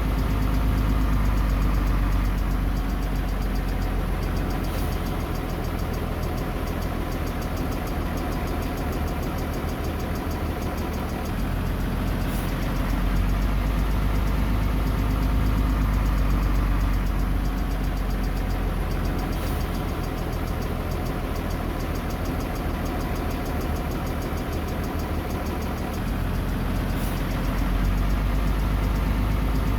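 Bulldozer's diesel engine running steadily, its deep note swelling and easing every few seconds as it takes up and sheds load.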